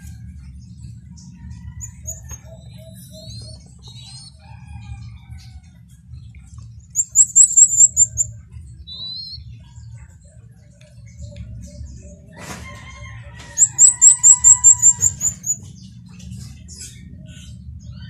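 Cage birds chirping, with two loud runs of very high, quick repeated notes: about eight notes some seven seconds in, and about a dozen around fourteen seconds in. Fainter scattered chirps and a low steady hum sit underneath.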